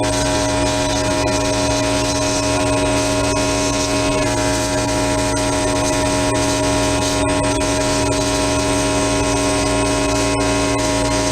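A motor-driven shop tool or machine running steadily, a constant hum with a hiss over it.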